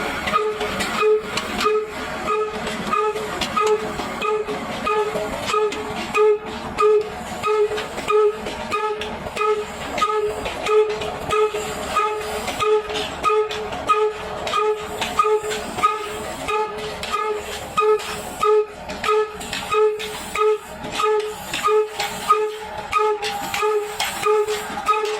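A 22 HP stationary diesel oil engine running steadily under load, driving a stone wheat grinder. It has an even chuffing beat of a little over two strokes a second.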